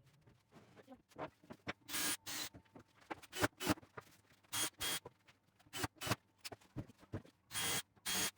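Irregular short scraping strokes, often in quick pairs, with pauses between them.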